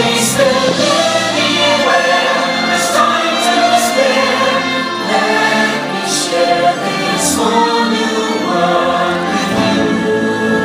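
Fireworks-show soundtrack played over park loudspeakers: a choir singing over orchestral music, with several short, bright hisses cutting through at intervals.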